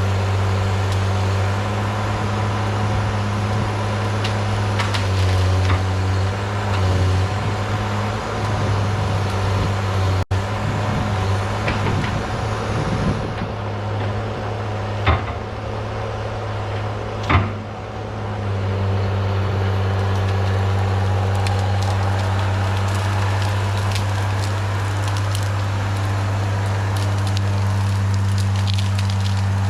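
Cat 318B excavator's diesel engine running steadily while wood cracks and splinters around it, as brush and branches are broken. Two sharp cracks stand out a little past the middle, while the engine's drone eases briefly.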